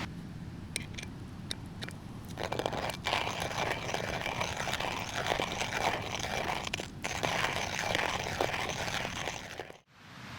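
Hand coffee mill grinding beans: a dense crunching that starts a couple of seconds in and repeats in a steady cycle with the turns of the crank, after a few sharp clicks. It cuts off abruptly near the end.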